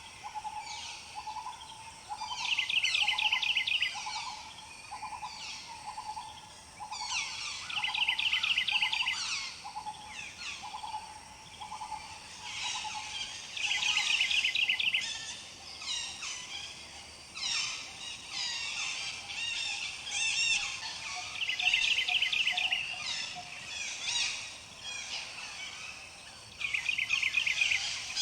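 Birdsong from several birds at once: one bird repeats a rapid trill about every five to six seconds, over a run of lower repeated notes that fades out about halfway through, with other chirps and whistles in between.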